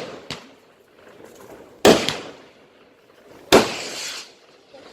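Fireworks bursting: a small pop just after the start, then two loud bangs about a second and a half apart, each fading with a crackling hiss. A further bang comes at the very end.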